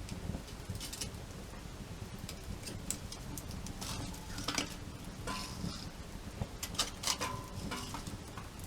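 Wood campfire crackling over a low steady rumble of burning, with scattered pops and snaps, a cluster of them about halfway through and another near the end.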